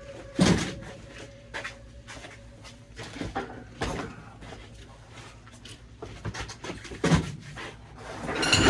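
Scattered knocks and clunks of objects being handled and shifted, with two louder thumps, one about half a second in and one near the seventh second.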